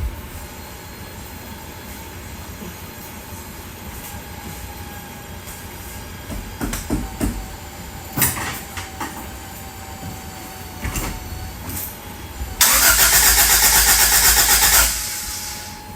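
1985 Toyota MR2's starter motor cranking the engine for about two seconds in a rapid even pulse, then stopping abruptly without the engine catching: a no-start on its first attempt in eight or nine years. A few sharp knocks come before it.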